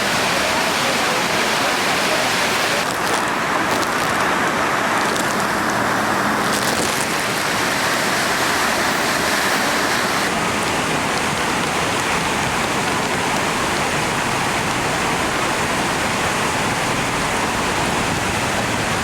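Loud, steady rushing of water, with no tune or voice over it.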